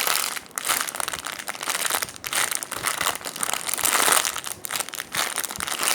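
Crinkling and rustling of plastic as a bread-shaped squishy foam toy is handled and squeezed, in dense crackles that go on throughout.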